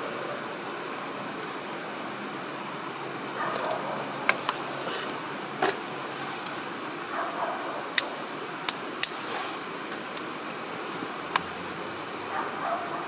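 Wood fire crackling in a wood-burning grill, with several sharp pops and snaps from the burning firewood over a steady rushing background.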